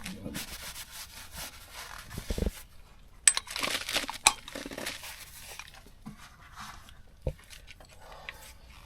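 Rubbing, scraping and light clicking of hands and tools working on the underside of a truck during an oil change, with a few short knocks.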